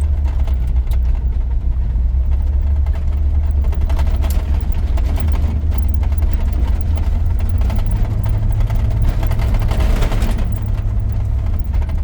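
A 1983 GMC C2500's 350 V8 and road noise, a steady low drone heard from inside the cab while driving. The drone rises slightly in pitch about eight seconds in, with a short surge of louder rushing noise just after.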